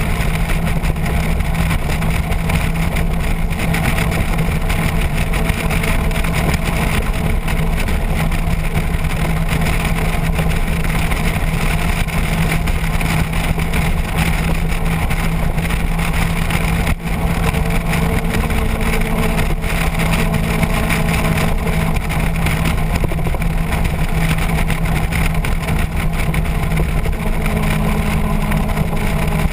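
Motorcycle engine running at a steady pitch while riding, under a constant rush of wind noise.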